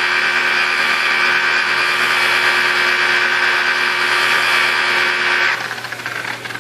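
Electric car polisher with a wool pad running steadily at about 1500–2000 RPM, working rubbing compound into the paint, then switching off about five and a half seconds in.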